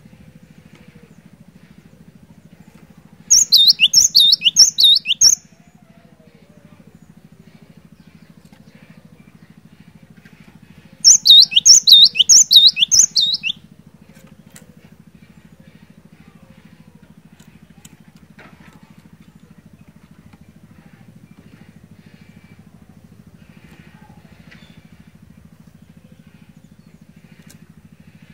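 Cinereous tit (glatik batu) singing: two loud phrases of quick, repeated high whistled notes, each sliding down in pitch, about five notes to a phrase. The first phrase comes a few seconds in and the second near the middle, over a steady low hum.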